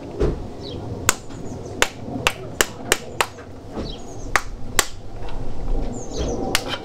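Hammer tapping on metal: about ten sharp separate strikes at an uneven pace, with faint bird chirps behind.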